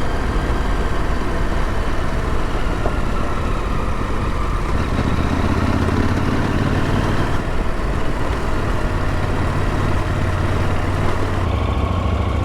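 Motorcycle engine running steadily with a constant low hum, with road noise.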